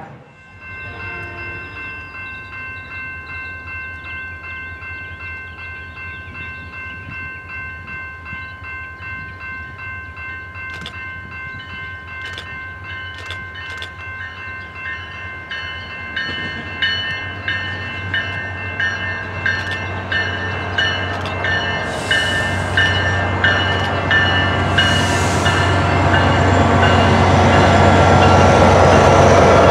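A bell rings on in a steady rhythm while an approaching SunRail commuter train grows louder, its low rumble building through the second half and peaking near the end.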